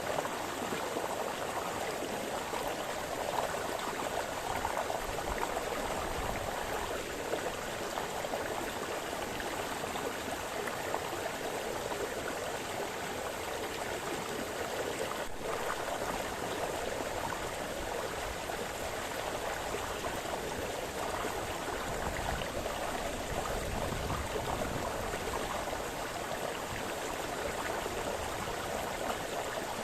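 A small brook splashing and babbling over stones, a steady rush of running water.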